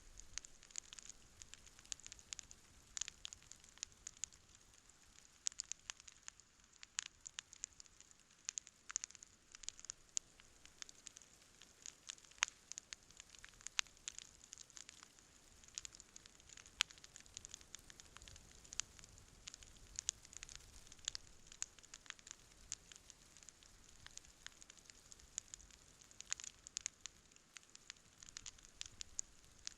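Wood campfire burning in snow, crackling and popping with many sharp, irregular snaps over a faint steady hiss.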